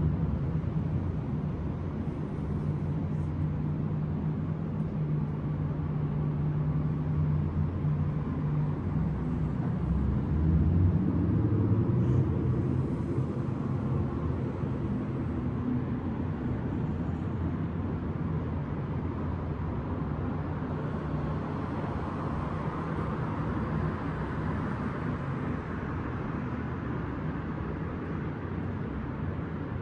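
Distant city traffic rumble, with a low engine drone for the first third and a vehicle swelling past and fading about two-thirds of the way through.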